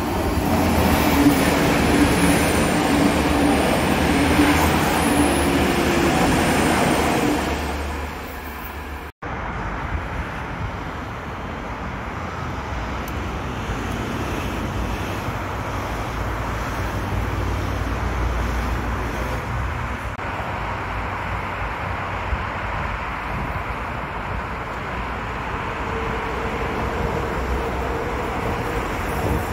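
Electric trains on the railway: a loud rolling train noise with a steady hum for the first eight seconds or so, cut off abruptly about nine seconds in. After that, a red double-deck regional train rolls past with a steady rumble of wheels on rails, and a steady whine comes in near the end as a red electric multiple unit passes.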